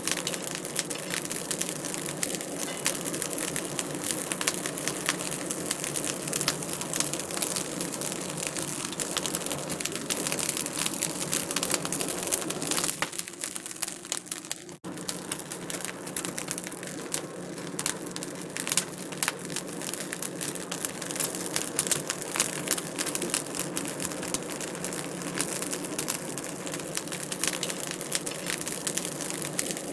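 Wood fire crackling in a fireplace: a dense, steady stream of small pops and snaps. The sound dips briefly about halfway through.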